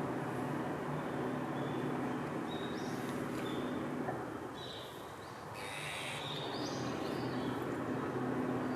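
Steady low rumble of distant traffic, with several short high bird calls a few seconds in and again a little past the middle.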